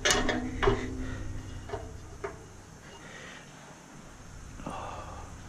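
Sharp metallic knocks on a stainless steel steamer being worked on by hand: two louder knocks in the first second, each ringing briefly, then two lighter taps, and a short scraping swish near the end.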